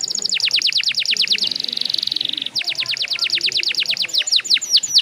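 Domestic canary singing: fast, even trills of high notes alternating with runs of rapid downward-sweeping notes that quicken toward the end.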